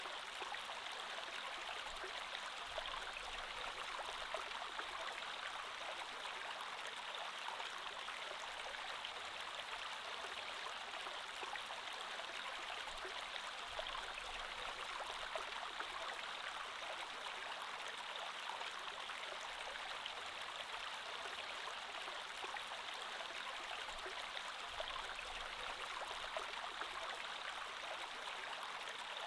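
Creek water flowing steadily over rocks, an even rushing babble with fine splashing detail.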